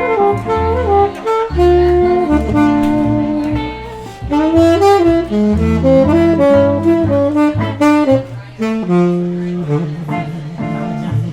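Jazz saxophone solo, a melodic line of held and moving notes, over a low bass line.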